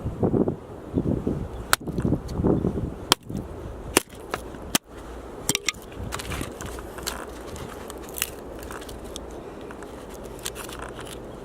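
Firewood being split with an axe: heavy thuds in the first couple of seconds, then several sharp knocks up to about five seconds in, followed by a few fainter clicks.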